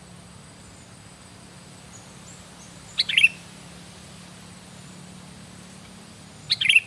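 Sooty-headed bulbul (kutilang) calling: two short calls about three and a half seconds apart, over a faint steady hiss.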